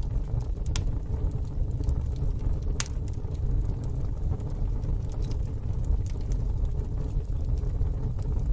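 Wood fire burning in a fire pit: a steady low rumble with scattered sharp crackles and pops, two louder pops about one and three seconds in.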